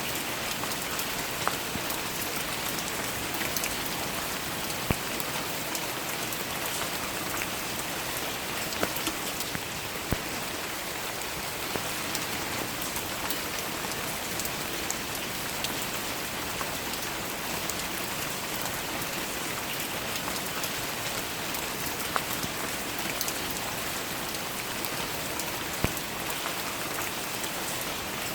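Steady rain falling, an even hiss with scattered sharp drips and taps of individual drops landing close by.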